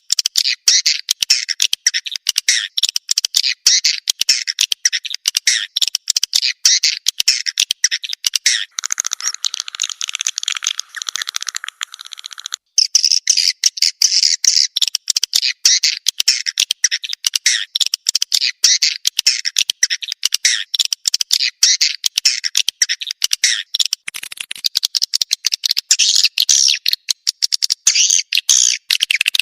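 Swiftlet calls played as a lure sound for calling swiftlets in to roost: dense, rapid chirping and clicking twitters, with a denser buzzing stretch from about 9 to 12 seconds in.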